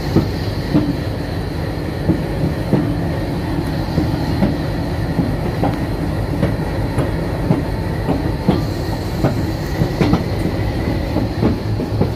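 Railway vehicle rolling slowly with one wheelset carried on a wheel skate (axle dolly): a steady low rumble of wheels and the skate's rollers on the rail, with irregular knocks and clicks.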